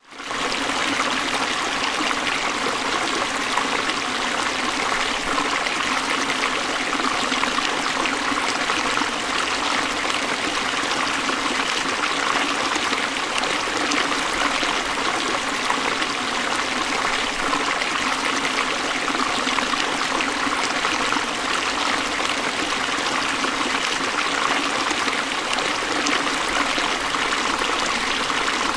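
Forest stream flowing and splashing over rocks, a steady even rush of water that fades in over the first half second.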